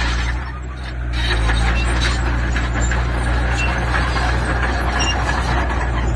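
Heavy diesel construction machinery running steadily, with a constant low engine hum under rough, clanking mechanical noise. The level dips briefly just under a second in.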